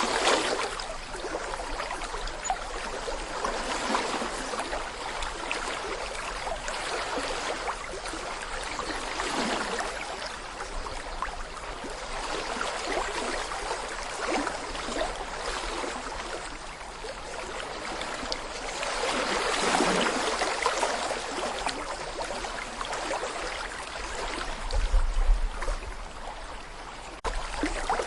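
Small brook babbling over stones, a steady rush of water that swells and eases every few seconds. A low rumble joins in near the end.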